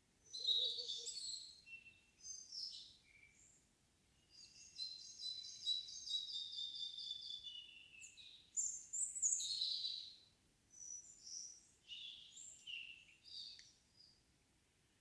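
Songbirds singing in an evening forest: a string of short, varied high phrases, with a long run of rapid repeated notes in the middle that drops in pitch at its end.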